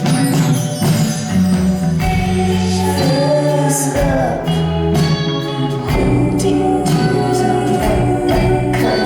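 Live band playing a song: a steady bass line, drums and cymbals, with a voice singing over them.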